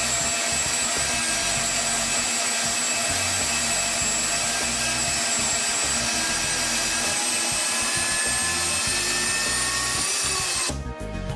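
FEMI NG160 metal-cutting band saw running its blade through metal dry, without coolant: a steady hiss with several high, thin ringing tones. It stops suddenly about ten and a half seconds in.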